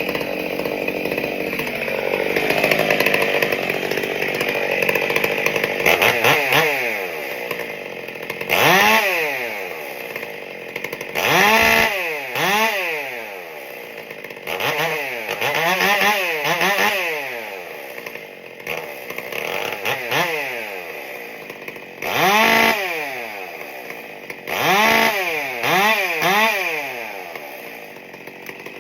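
Stihl MS 661 two-stroke chainsaw, with freshly reshaped transfer ports and an epoxy-repaired intake, running fast at first and then blipped from idle to high revs and back about a dozen times, each rev rising and falling quickly. Its quick throttle response is the point of the porting work.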